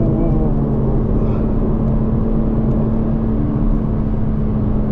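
In-cabin sound of a BMW M3 Competition's twin-turbo straight-six running steadily at speed, mixed with road noise on a wet track.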